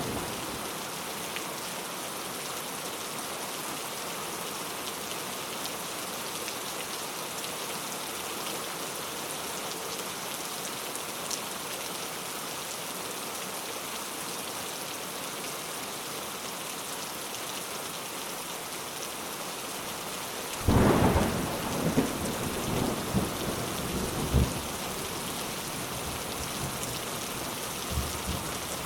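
Steady rain falling. About two-thirds of the way through, a sudden clap of thunder rumbles on for a few seconds, and a smaller rumble comes near the end.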